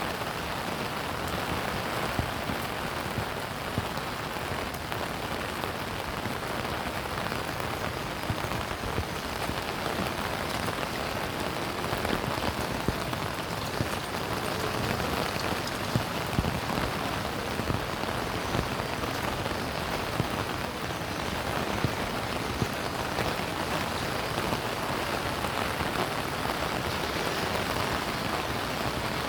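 Steady rain falling, with scattered sharper drop impacts standing out from the even patter.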